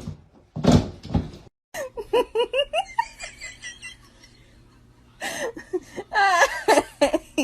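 A person laughing in quick repeated ha-ha notes, twice over, after a short loud noise at the very start.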